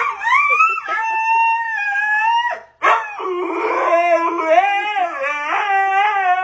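A dog howling in two long howls: the first rises and then holds steady, and the second, after a brief break, wavers up and down.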